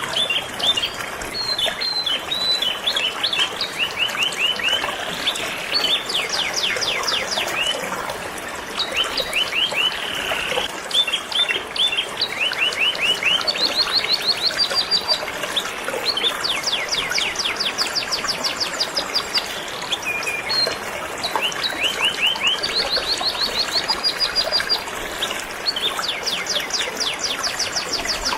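Canary singing in long runs of fast repeated high notes, with short pauses between phrases, over the steady rush of flowing river water.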